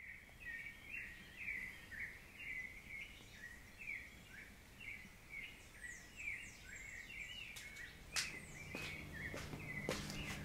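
A bird calling over and over, short chirps about twice a second, faint. In the last couple of seconds a few sharp clicks and a low hum come in.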